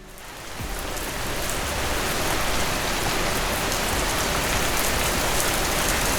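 Rain falling steadily: a dense, even hiss of many drops that fades in over the first second or two and then holds steady.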